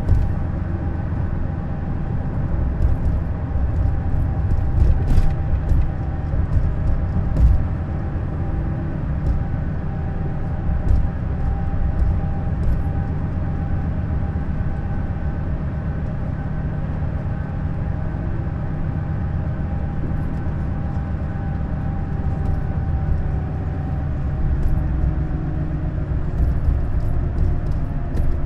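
Neoplan Skyliner N 1122/3C double-decker coach on the move: a steady low engine and road rumble, with scattered short rattles and knocks, a cluster of them a few seconds in and again around the middle.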